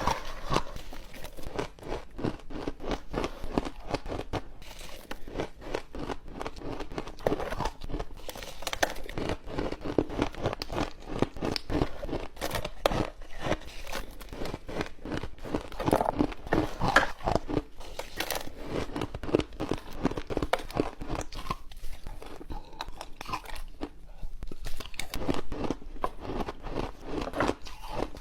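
Ice being bitten and chewed close to the microphone: a dense, continuous run of sharp crunches and cracks as the cubes break between the teeth.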